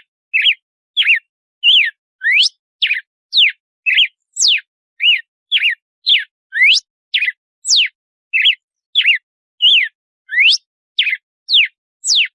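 Red-cowled cardinal (galo-de-campina) singing its 'açoite' song: a steady run of short, clear whistled notes, about two a second, some sweeping up and some sweeping down.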